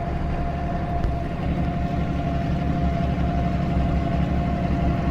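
Tractor engine running steadily, a low rumble with a steady whine over it, heard from the operator's seat.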